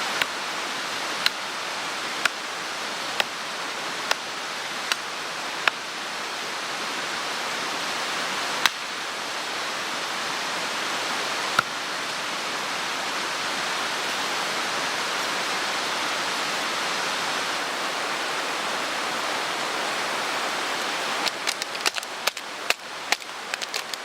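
Mountain stream rushing steadily. Short, sharp clicks come over it about once a second for the first several seconds, twice more later, and in a quick cluster near the end.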